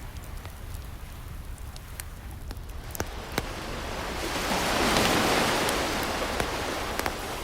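A wood fire crackling with scattered sharp pops, over a steady low rumble of surf; an ocean wave washes in, building to its loudest about two-thirds of the way through and then fading.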